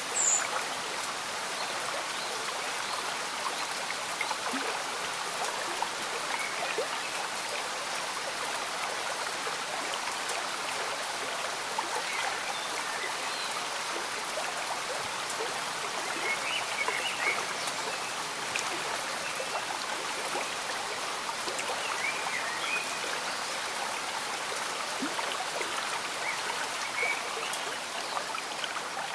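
A slow-moving stream bubbling and trickling steadily, with gentle rain falling.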